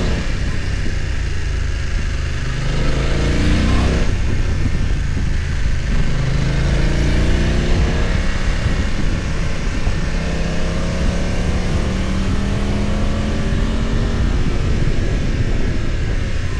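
BMW F900 XR's parallel-twin engine under way, its pitch rising as it accelerates, dropping sharply about four seconds in at a gear change, then climbing again and holding fairly steady.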